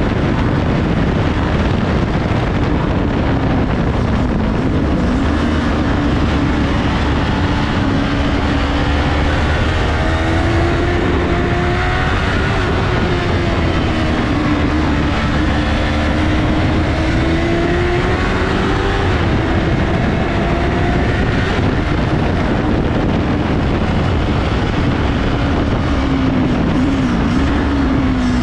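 Yamaha R3's parallel-twin engine running hard on track, its pitch rising and falling repeatedly as the revs climb and drop, under heavy wind rush on the onboard microphone.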